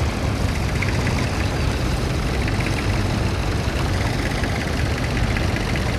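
Vintage tractor engine running steadily at low revs.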